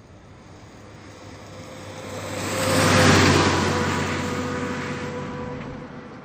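A motor vehicle's engine passing by, with a steady hum. It grows louder to a peak about three seconds in, then fades away.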